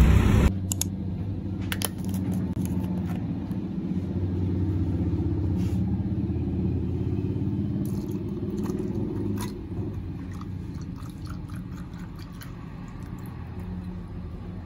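Road vehicle running: a steady low rumble with scattered light clicks, easing off toward the end.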